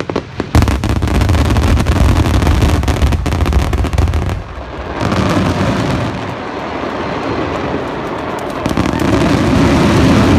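Massed fireworks barrage: many shells bursting at once, merging into a continuous loud rumble and crackle with no gaps between the bursts, which dips briefly about halfway through and swells again near the end.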